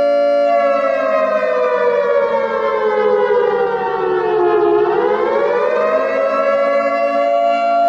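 Modern air-raid siren sounding a steady tone. About half a second in it slides slowly down in pitch for about four seconds, then climbs back up within a couple of seconds and holds steady again.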